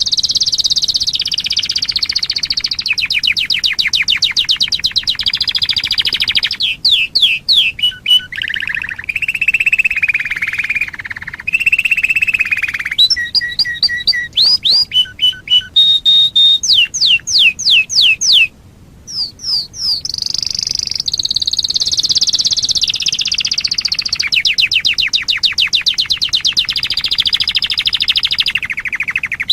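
Domestic canary singing a long, varied song of fast trills and rolls, with runs of separate sweeping whistled notes in the middle and a brief break about two-thirds of the way through.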